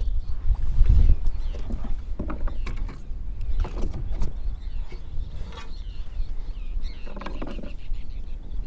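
Wind buffeting the microphone as a steady low rumble. Over it come scattered knocks, clicks and creaks of a kayak and fishing gear while a caught redfish is handled.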